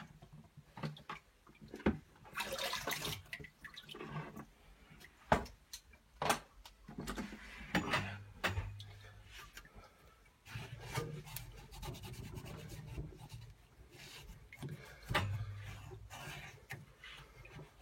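Cloth rubbing and wiping inside a combi boiler's diverter valve housing, with scattered clicks and knocks from handling the valve parts.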